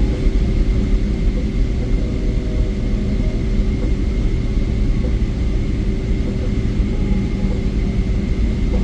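Steady low rumble inside the cabin of a Boeing 777-300ER, from its GE90 engines and airframe, with a faint steady hum above it.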